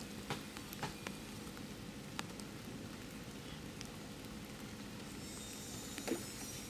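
Steady rain falling, with scattered sharp drips and drop impacts.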